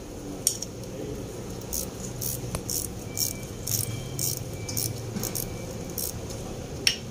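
Irregular light metallic clinks and rattles of hand tools and fasteners being handled during engine assembly, a few sharp ticks a second, with a faint low hum underneath.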